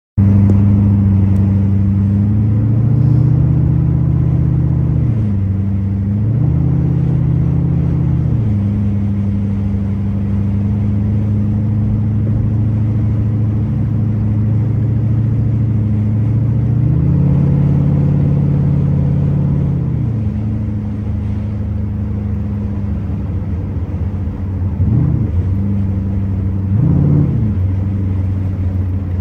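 LS1 5.7-litre V8 with no catalytic converter, idling and revved three times in slow swells, then blipped sharply three times near the end. It is being run after new O2 sensors went in to cure a misfire.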